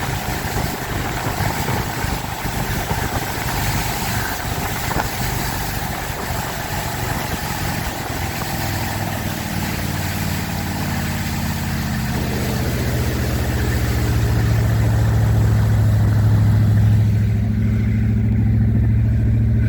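Four Winns Liberator powerboat's engine running under a broad rush of wind and water over the hull. About twelve seconds in, the rushing fades and a steady low engine drone comes to the fore.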